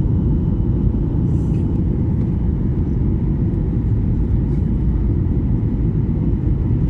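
Airliner cabin noise on final approach: a steady, loud low rumble of engines and airflow, with faint steady whining tones above it.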